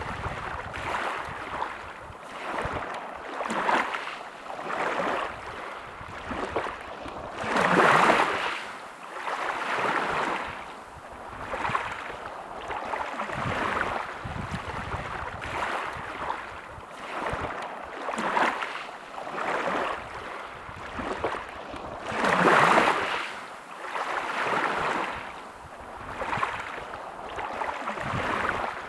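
Sea waves washing and lapping, one after another every second or two, with two bigger waves about eight seconds in and again about twenty-two seconds in.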